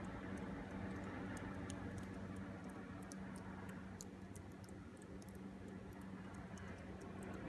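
Quiet indoor room tone: a steady low hum with faint, scattered high ticks.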